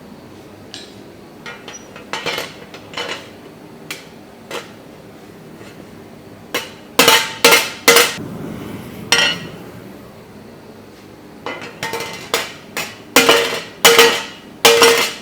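Hammer blows on a thin steel frying-pan blank on an anvil, each ringing with a metallic clang. A few light taps come first, then a group of loud blows about seven seconds in and another run of loud ringing blows near the end.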